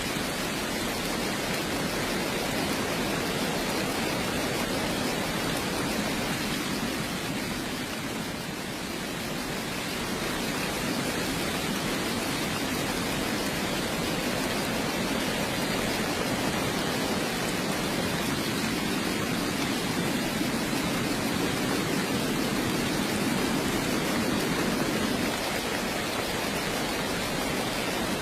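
Steady heavy rain, an even rushing hiss with no separate drops standing out, dipping slightly in level about eight seconds in.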